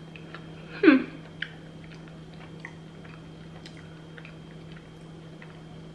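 A person chewing a bite of vegan buffalo wing with the mouth closed, making many small soft mouth clicks. About a second in there is one short falling hum from the voice, like an "mm" while tasting. A steady low hum runs underneath.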